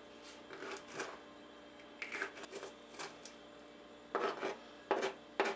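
Scattered soft taps and rustles of kitchen handling, with the firmest knocks about four and five seconds in, as habanero peppers are being handled.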